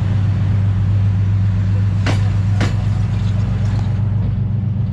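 DPL-1 diesel train running: a loud, steady low drone, with two sharp clicks about half a second apart midway through.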